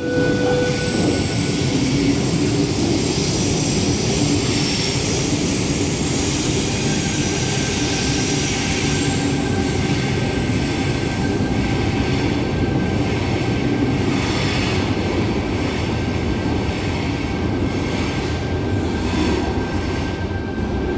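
Sydney Trains Tangara electric train running slowly along the platform: a steady loud rumble of wheels and motors, with a thin high tone held through it.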